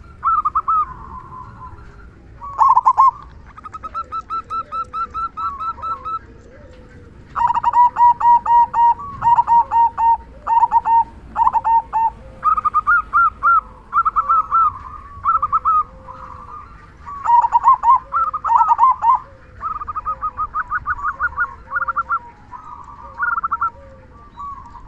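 Zebra dove (perkutut) singing its staccato cooing song, phrase after phrase of rapid pulsed coos. A fainter low call repeats about once a second underneath.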